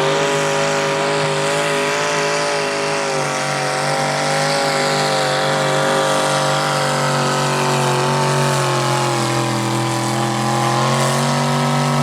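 Alcohol-injected big-block Chevy V8 in a mini rod pulling tractor, screaming at full throttle through a pull. It holds a steady high pitch after climbing just before, and rises a little near the end.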